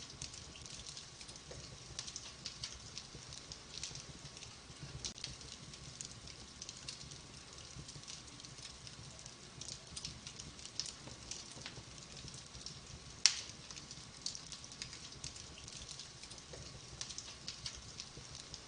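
Wood fire in a fireplace crackling, with many small sharp pops and one louder pop about two-thirds of the way through, over a low steady rumble.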